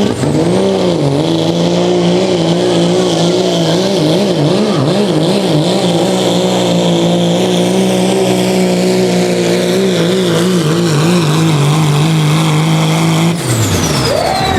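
Diesel pickup truck engine at full throttle pulling a sled, its pitch wavering up and down for several seconds under load before holding steady. Near the end the engine drops off sharply, then revs back up.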